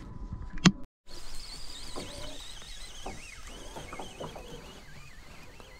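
Quiet outdoor ambience on a lake, with a bird singing continuously in the distance in a wavering, high warble and a few soft knocks. A short click and a moment of dead silence about a second in mark a cut.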